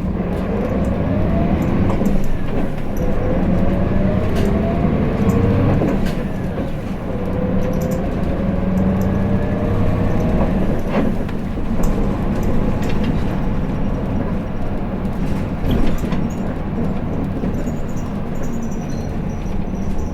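Hino Blue Ribbon City city bus's diesel engine pulling away from a stop, its pitch rising through several gear stages over the first ten seconds, then running steadily at cruising speed.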